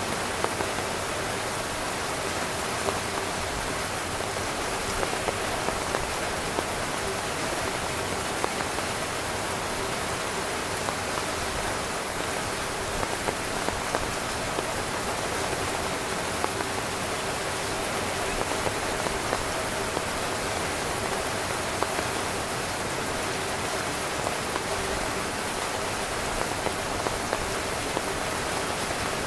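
Heavy rain pattering steadily on a tent fabric, a dense hiss of drops with many small individual taps on top.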